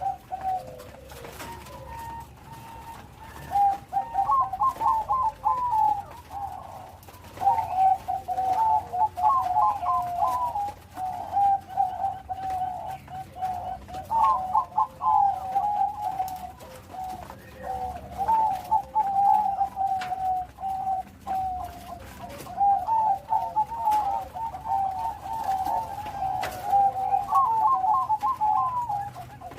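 Perkutut (zebra dove, Bangkok-bred song strain) singing its cooing song. Each phrase is a quick stutter of notes that runs into a longer held coo, and the phrases repeat every few seconds almost without a break.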